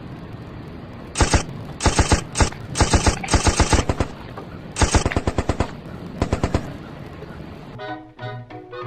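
Several short bursts of rapid automatic gunfire, machine-gun style, about ten shots a second with brief pauses between bursts. Music with pitched notes comes in near the end.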